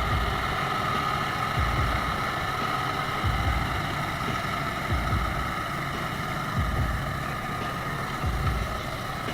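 Tractor engine running steadily, with a deep low pulse swelling about every second and a half.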